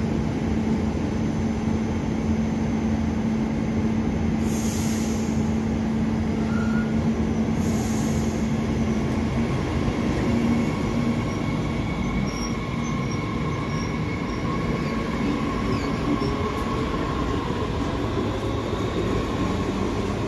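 Train running on the rails with a steady, loud rumble and a thin, high wheel squeal. Two short hisses come about four and eight seconds in, and later a whine slowly shifts in pitch.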